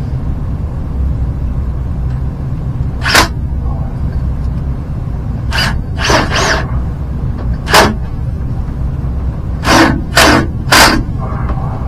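A series of sharp knocks or bangs, about nine at irregular intervals, some coming in quick pairs, over a steady low rumble.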